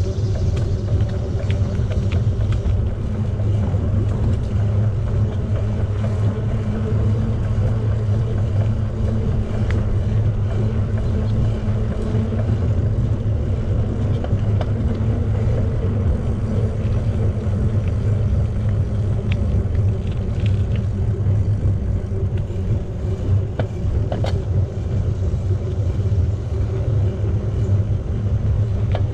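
Steady low rumble of a bicycle riding along: tyre noise and wind on the bike-mounted microphone, with a couple of faint ticks late on.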